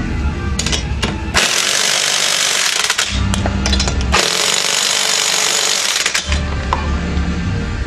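Pneumatic impact wrench run in two bursts of a second or two each, working on the Jeep's lug nuts, with a steady low hum between the bursts.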